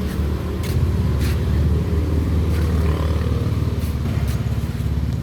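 Motor vehicle engine running with a steady low rumble, with a few faint clicks over it.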